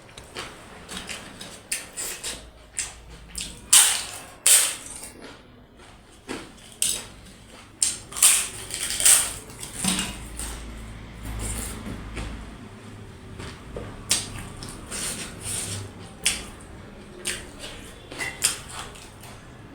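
A person eating close to the microphone: irregular wet chewing, lip smacks and mouth sounds over a mouthful of dhido and goat meat curry, with a few louder smacks or slurps near the start and in the middle.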